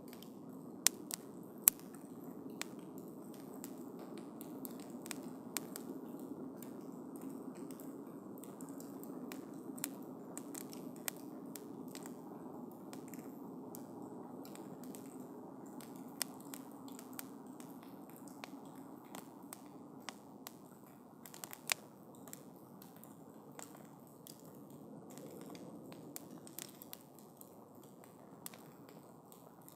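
Wood campfire burning, with a steady low rush from the flames and scattered sharp pops and crackles. Two loud pops come about a second in and another about two-thirds of the way through.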